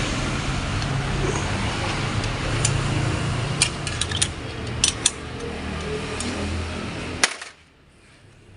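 Steady workshop background noise with a low hum, and a few sharp metallic clicks of transmission parts being handled. The noise cuts off abruptly about seven and a half seconds in.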